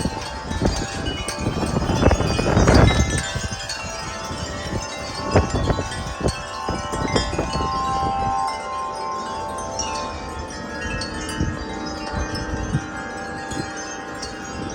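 Tuned metal wind chimes ringing steadily in strong, gusty wind, several notes overlapping, with wind buffeting the microphone, heaviest about two seconds in.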